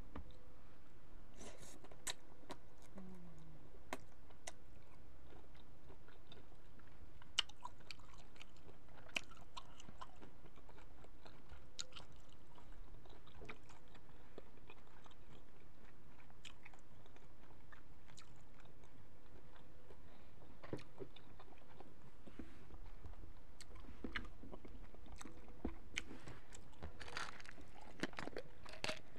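A person chewing cooked shrimp with cocktail sauce close to the microphone: scattered wet mouth clicks and smacks, coming thicker near the end.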